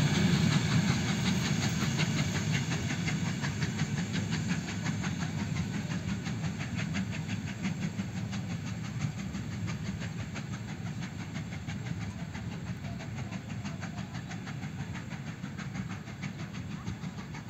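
Vintage passenger coaches of a steam-hauled train rolling away along the track, their wheels clicking steadily on the rails, the sound fading gradually as the train recedes.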